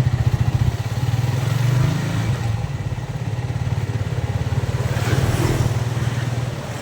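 Yamaha Vixion motorcycle's single-cylinder four-stroke engine running at a steady, low speed while ridden, its rapid exhaust pulse heard from the rider's seat.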